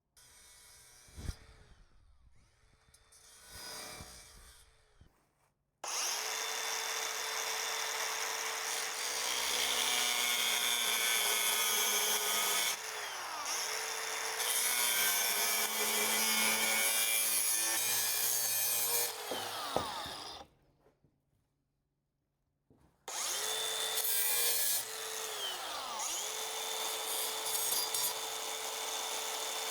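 Electric grinder running and grinding steel to take a little more material off a fitted part, its motor pitch dipping each time it bites and recovering. It runs in two long stretches with a short stop between, after a few seconds of quiet handling knocks.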